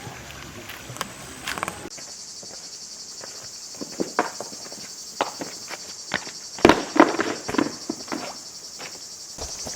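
A steady, high-pitched insect chorus of crickets that starts abruptly about two seconds in, with irregular footsteps and knocks, the loudest cluster past the middle.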